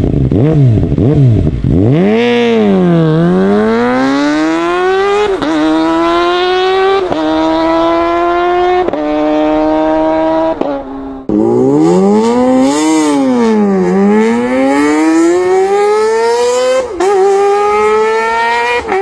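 Kawasaki motorcycle engine revving hard and accelerating through the gears, its pitch climbing and dropping sharply at each upshift. It happens in two runs, each starting with the revs falling then climbing again, with a break about eleven seconds in.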